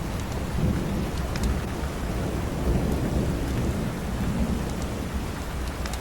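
Steady rain with a low rolling rumble of distant thunder that swells and fades a few times, and a few faint crackles from a wood fire.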